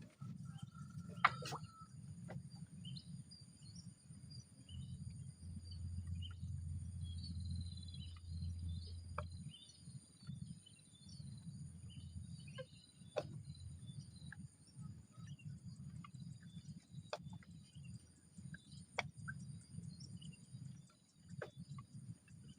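Outdoor ambience: insects shrilling steadily at a high pitch, with scattered bird chirps over a low steady rumble. A few sharp clicks, the loudest about a second in.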